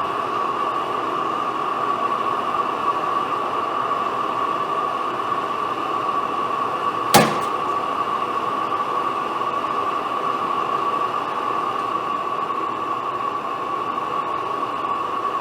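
Old Bovard & Company engine being turned over, giving a steady whirring hiss with a constant tone and one sharp click about seven seconds in. Typical of compression leaking out past a valve.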